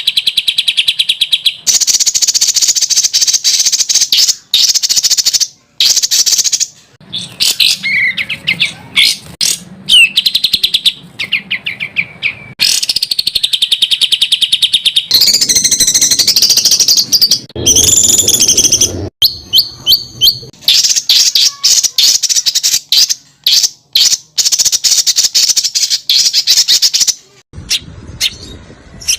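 Songbird song made of rapid trills and fast strings of sharp, repeated notes: the dense, harsh 'tembakan' (rapid-fire) phrasing prized in Indonesian songbird contests. It comes in short spliced segments that cut in and out abruptly, with brief gaps between them.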